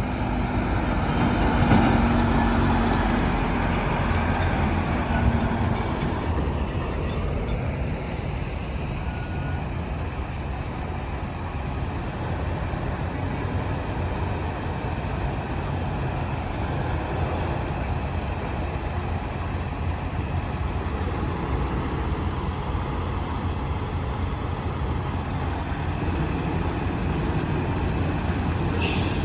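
Heavy trucks on a highway rolling past, with engine and tyre rumble that swells to its loudest about two seconds in and then settles into a steady traffic drone.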